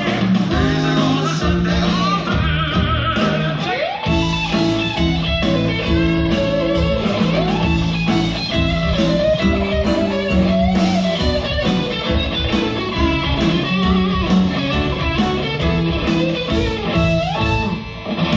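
Live rock band music: an electric lead guitar plays a melodic solo with bent, sliding notes over bass guitar and drums.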